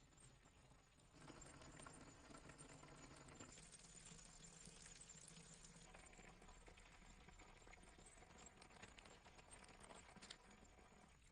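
Chickens pecking and scratching: faint, rapid, irregular taps and pattering that get louder about a second in.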